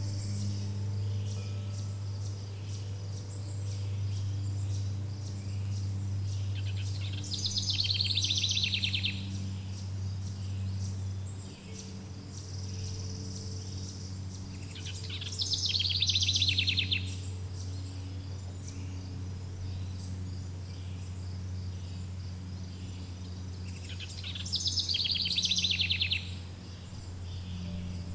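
A songbird sings the same short, rapid trilled phrase three times, roughly eight seconds apart. Under it run a steady low drone and a faint high chirring like insects.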